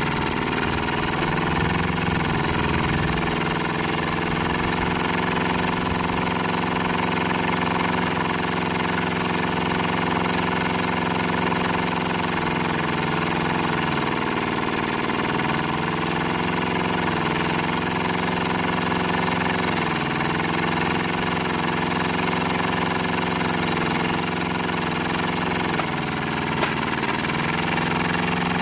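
Diesel engine of an old 1-ton Kubota mini excavator running steadily, its pitch sagging briefly a few times as the hydraulics take load.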